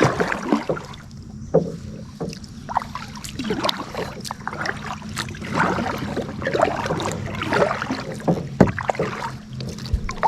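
Kayak paddle strokes splashing in the water, with irregular sharp knocks and drips, over a steady low hum.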